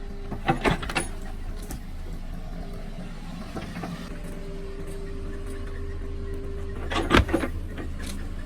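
Excavator engine running steadily, with a steady whine held through much of it. A few sharp knocks come near the start, and a louder cluster of knocks comes about seven seconds in.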